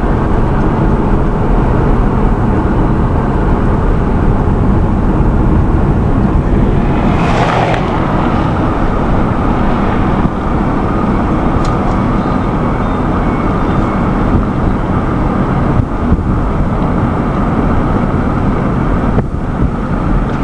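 Steady loud rumble of a moving car, road and engine noise, with a brief rushing swell about seven seconds in.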